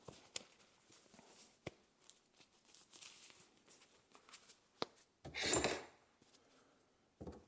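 Quiet handling noises while work gloves and safety glasses are put on: a few light clicks, then a louder rustle lasting under a second about five and a half seconds in.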